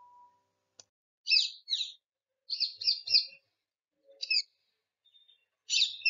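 Bird chirps: short, high calls in a few groups, two about a second in, a quick run of three or four near the middle, and more near the end.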